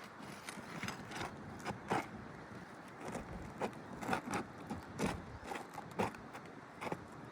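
Irregular scraping and sharp clicks of a hand tool working under asphalt shingles, prying at them in search of a hidden nail.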